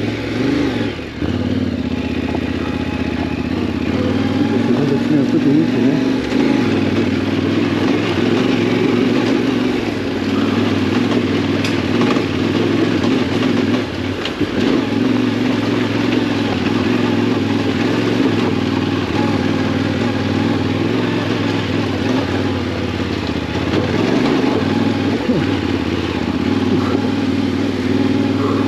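Yamaha Ténéré 700's parallel-twin engine running steadily under way, its pitch rising and falling a little with the throttle, with brief dips about a second in, midway and a few seconds before the end.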